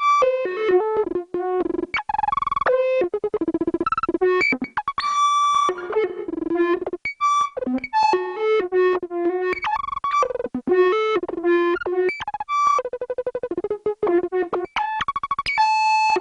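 Korg Volca Modular synthesizer playing a fast sequence of short pitched blips that leap between high and low notes. A couple of longer, held bright tones come about five seconds in and near the end.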